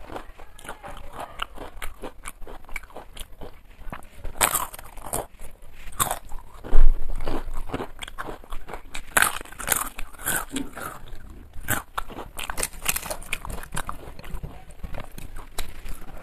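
Close-miked eating: crisp crunching bites and chewing in an irregular run, with a loud low bump about seven seconds in.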